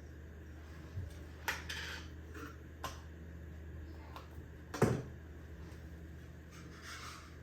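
A few scattered knocks and clatters of dishes and kitchen utensils being handled, the loudest a bit under five seconds in, over a steady low hum.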